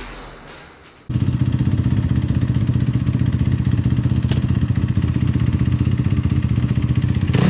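Dirt bike engine running steadily at low revs, cutting in abruptly about a second in as background electronic music fades out. A single sharp click about four seconds in.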